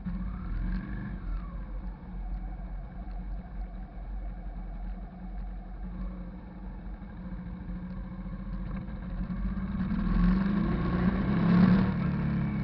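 Hyosung GV650 cruiser's V-twin engine running steadily on the road, swelling louder from about ten seconds in and peaking near the end.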